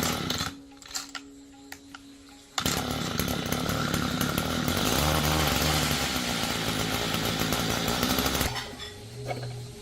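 Two-stroke chainsaw engine running loud and fast for about six seconds, starting suddenly a few seconds in and cutting off abruptly near the end.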